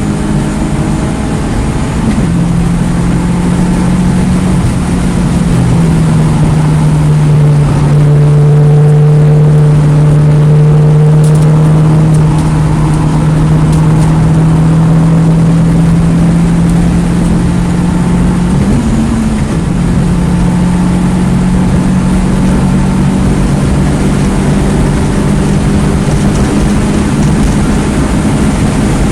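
2009 Mini Cooper S (R56) 1.6-litre turbocharged four-cylinder engine running hard on a track lap, over road and wind noise. Its pitch holds mostly steady, dipping around five seconds in and rising sharply near nineteen seconds.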